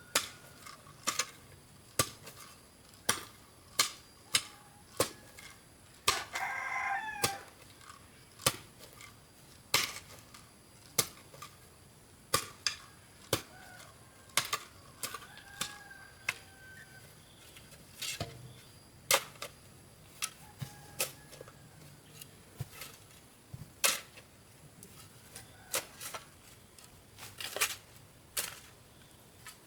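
A rooster crows once, about six seconds in. Around it, sharp knocks ring out again and again, irregularly spaced about one a second.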